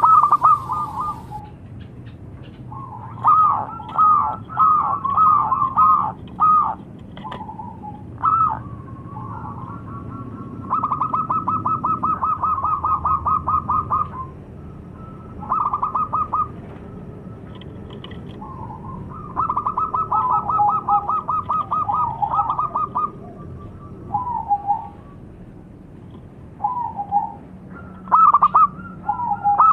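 Zebra dove (perkutut) cooing: bouts of fast stuttering trill notes and shorter coos, repeated with brief pauses between phrases.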